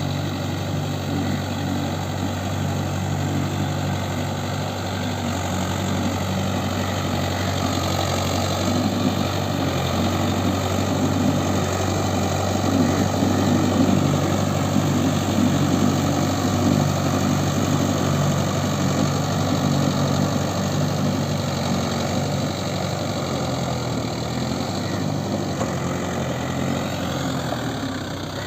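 Mahindra Yuvo 575 4WD tractor's four-cylinder diesel engine running steadily, its note rising near the end.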